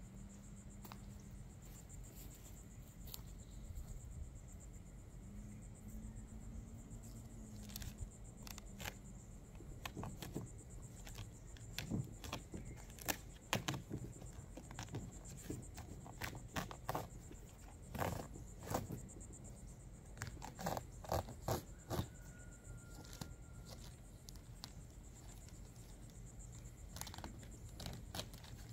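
Scattered clicks, taps and scrapes of things being handled, thickest in the middle stretch, over a steady low hum.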